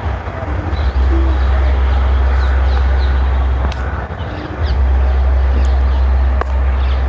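Wind buffeting the microphone in a loud, steady low rumble that eases for a moment about four seconds in, with small birds chirping in short, scattered calls.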